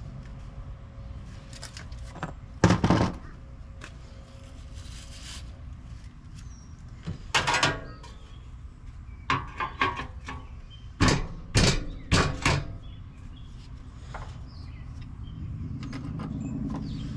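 Scattered clunks and knocks of tools and metal parts being handled while working on an air-conditioner condenser. The loudest is a single knock about three seconds in, followed by a cluster of quicker knocks in the middle, over a faint steady hum.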